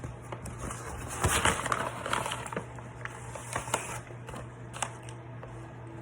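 Close-up eating sounds of a man chewing an In-N-Out Double-Double burger: clusters of short crackly, moist noises, loudest a little over a second in, with a few more near the end, over a steady low hum.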